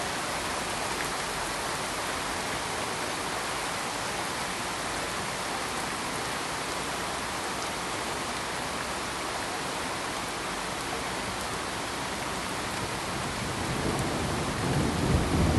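Steady, even rushing noise of rain, with a low rumble of thunder beginning to build near the end.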